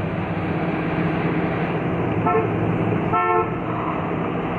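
The 1967 Dodge Coronet 500's 383 cubic-inch big-block V8 runs steadily at low speed as the car rolls by. A car horn toots twice, about two seconds in and again just after three seconds, the second toot a little longer.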